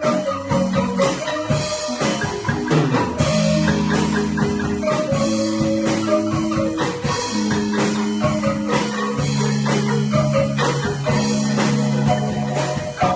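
Bamboo band playing an upbeat instrumental pop arrangement: struck bamboo xylophone-type instruments over held low notes, with a steady percussion beat.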